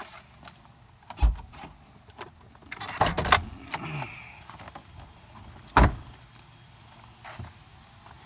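A few sharp knocks and clunks from handling parts of the car: one about a second in, a short cluster around three seconds, and another near six seconds.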